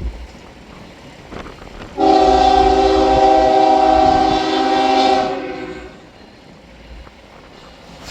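Locomotive air horn sounding one long blast of several steady tones together, starting about two seconds in and lasting about four seconds before fading, over the low rumble of the train.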